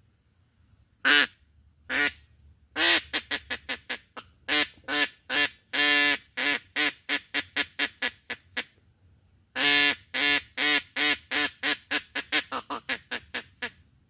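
Duck quacking: two single quacks, then two long runs of loud quacks. Each run starts with longer quacks that get shorter and quicker, about four a second by the end, in the descending pattern of a hen mallard's call.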